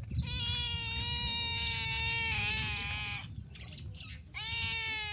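Goat bleating: two long, drawn-out calls, the second starting about four seconds in.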